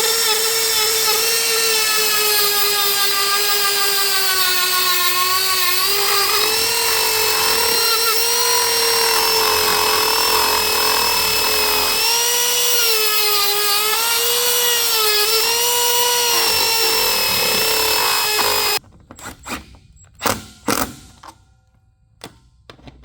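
Dremel rotary tool running at high speed, cutting a slot in wood: a steady high whine whose pitch sags and wavers slightly as the bit bites. It stops abruptly a few seconds before the end, followed by a few light clicks and knocks.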